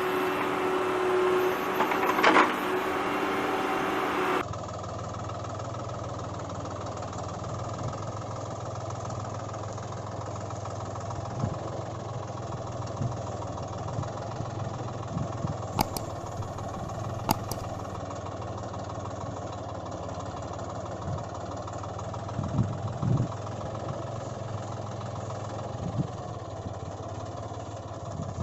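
An engine running steadily. It starts higher and brighter, then about four seconds in switches suddenly to a lower, steady idling hum with a few light knocks.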